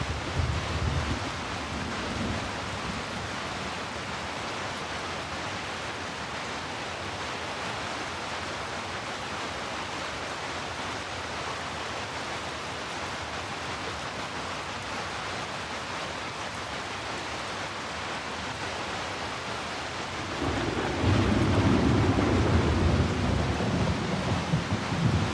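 Heavy rain falling steadily as an even hiss, blended with deep brown noise. A deep rumble swells briefly at the start and again, louder, from about four-fifths of the way in.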